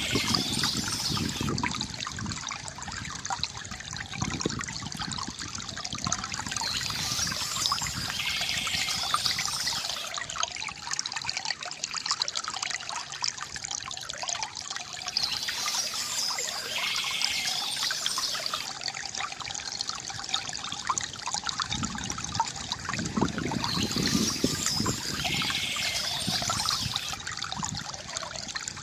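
Bamboo water fountain trickling and gurgling steadily as water spills and splashes. Birds chirp in short spells about every eight seconds.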